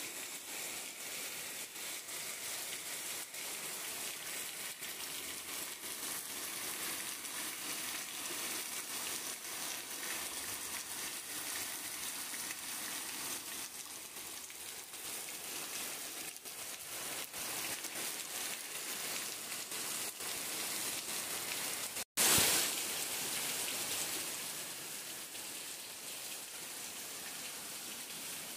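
Heavy tropical downpour: rain falling hard with a steady, dense hiss. About two-thirds of the way through it cuts out for an instant and comes back louder, then settles.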